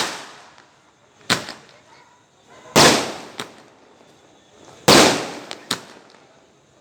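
Firecrackers going off one after another: about six sharp bangs, irregularly spaced, each fading away over half a second or so, with the biggest two about three and five seconds in.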